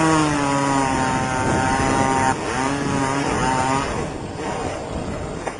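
Two long, held yells from a person, the first a little over two seconds and the second shorter after a brief break, over a steady rushing noise.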